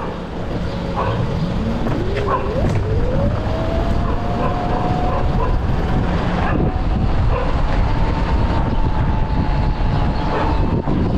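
Homemade electric bike being ridden: the motor's whine climbs in pitch as it speeds up, then holds steady and edges slightly higher, over road and wind rumble.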